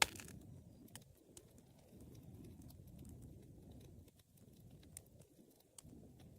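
Wood fire burning with a low, uneven rumble of flames and scattered sharp crackles and pops, the loudest pop right at the start.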